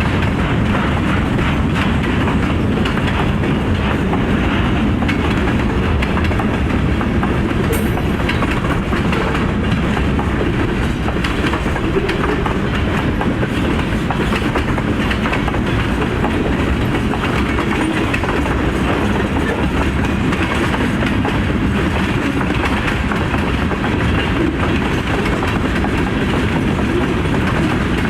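Freight train rolling past, its cars' wheels clattering over the rail joints in a steady, continuous rumble.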